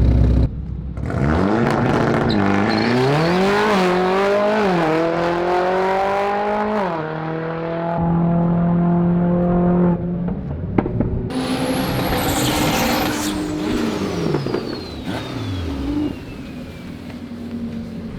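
Car engine accelerating hard, its note climbing and dropping back three times as it shifts up through the gears, then holding a steady high note. After a cut, an engine is heard again with a high whistle that slowly falls away, and the engine note drops near the end.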